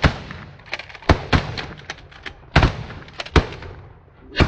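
A volley of shotgun blasts from several goose hunters firing together, about six loud shots at uneven intervals over the few seconds, with fainter cracks and clicks between them.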